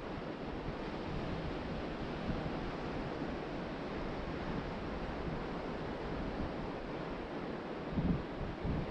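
Ocean surf washing steadily onto the beach, with wind buffeting the microphone in a short gust about eight seconds in.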